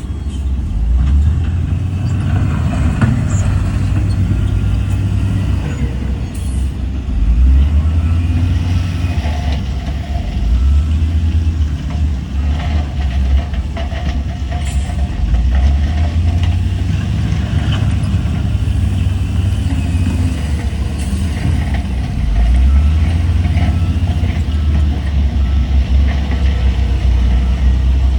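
Deep diesel engine rumble of heavy earthmoving machinery, a bulldozer and dump trucks, rising and falling in level as they work.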